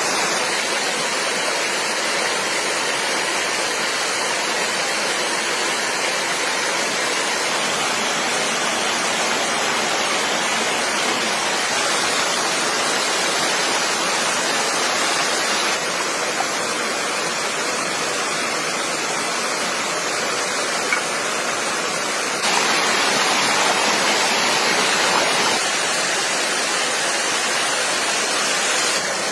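Flowing stream water rushing steadily, a continuous hiss, with a slightly louder stretch for a few seconds late on.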